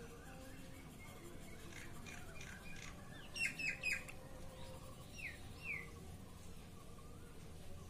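Bird chirps: faint scattered chirps, a quick run of three sharp chirps about three and a half seconds in, then two short falling calls.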